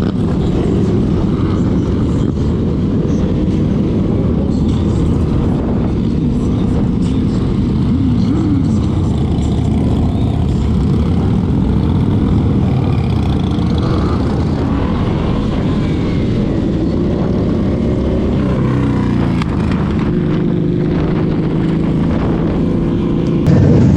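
Motorcycle engines running, their pitch rising and falling now and then as they are revved.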